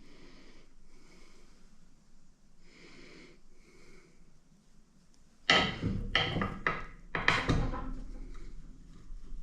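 Faint handling noise, then about halfway through a quick run of about six sharp metal-on-metal knocks and clanks over two seconds, as parts of a hydraulic cylinder are fitted back together.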